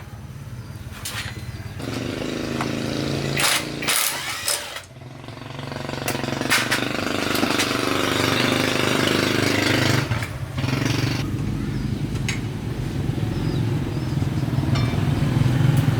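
Small motorcycle engine running, its revs picking up about two seconds in, dropping briefly near five seconds, then held up again, with a few sharp clicks over the top.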